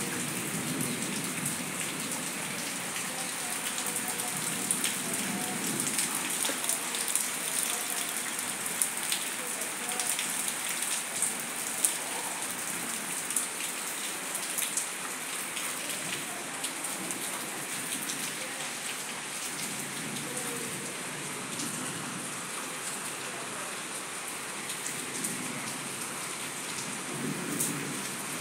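Light rain falling steadily on leaves and wet flat rooftops, an even hiss with many sharp individual drop ticks, busiest in the first half.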